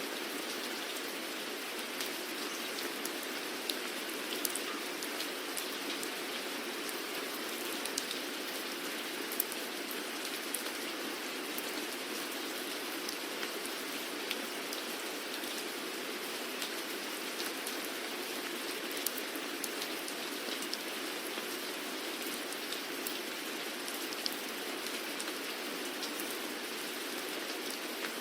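Steady rainfall: a continuous even hiss with scattered sharp ticks of individual drops hitting close by.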